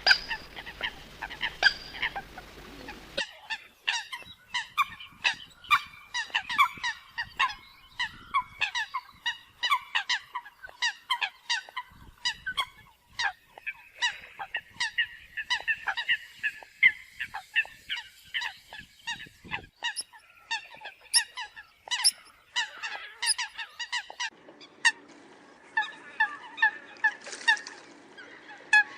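A flock of Eurasian coots calling: many short, sharp honking calls overlapping, several a second, played as a hunter's lure recording to draw coots in.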